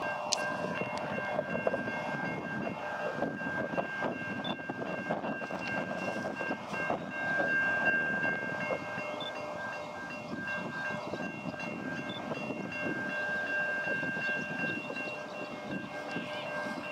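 Diesel locomotive hauling a container train approaching slowly, its engine and wagons making a steady rumble that swells a little midway, with a steady high ringing tone over it.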